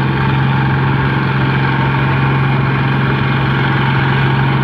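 Tractor engine running steadily at a constant speed, its pitch holding level.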